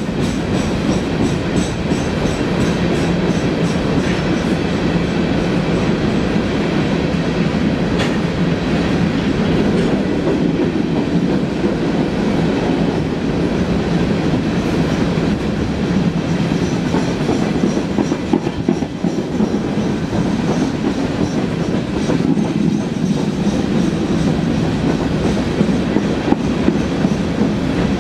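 Freight train of empty open-top hopper cars rolling past in a steady, continuous rumble.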